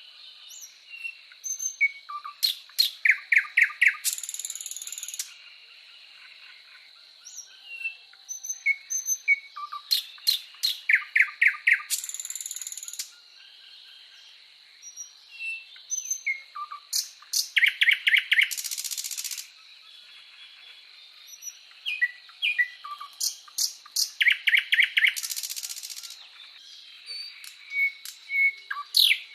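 Birdsong: a bird repeats a phrase of quick, clear notes ending in a buzzy trill about every seven seconds, with scattered short chirps between phrases and a steady high-pitched tone underneath.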